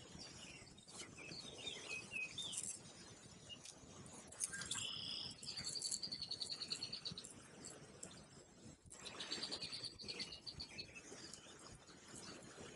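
Songbirds singing: scattered short chirps early on, then two dry, rapidly pulsed high trills of about a second and a half each, a few seconds apart, over low steady background noise.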